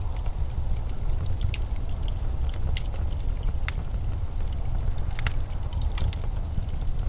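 Steady low rumble of blizzard wind, with scattered sharp clicks and crackles on top.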